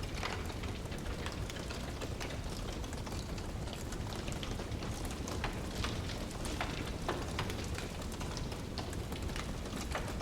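Wood fire burning in a fireplace: a steady low rush with many irregular crackles and sharp pops.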